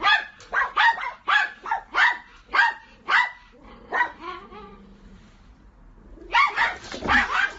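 A dog barking: a quick series of sharp barks, about two a second, for roughly four seconds, then a lull and another burst of barking near the end.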